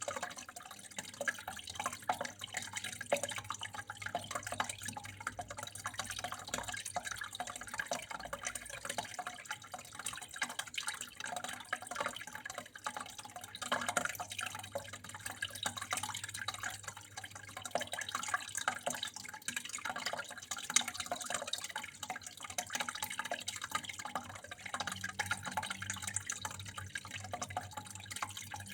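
Water flowing and splashing steadily, with many small drips and splashes, over a faint steady low hum.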